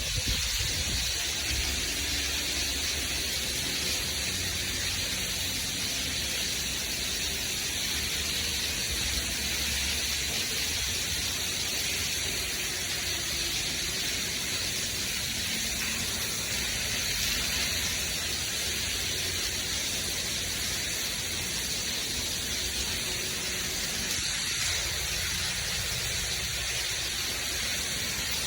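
Steady hiss of rushing water, with a low rumble underneath that fades out about ten seconds in.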